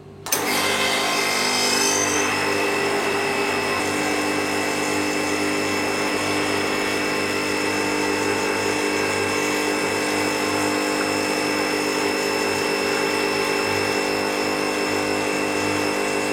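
Blitz semi-automatic pod espresso machine's pump running steadily while it brews a long shot, a loud, even mechanical buzz with a constant pitch. It starts abruptly a fraction of a second in.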